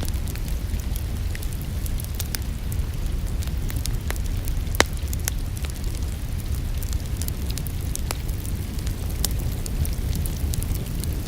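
Crackling wood fire in a fireplace: scattered sharp pops over a steady low rumble, the loudest pop about five seconds in. Steady rain falls underneath.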